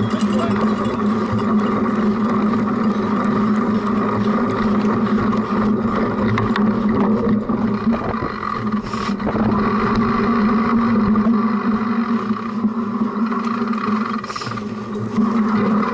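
Cyclocross bike ridden hard over rough ground, heard through a camera mounted on the bike's front: a steady droning hum with scattered rattles and knocks.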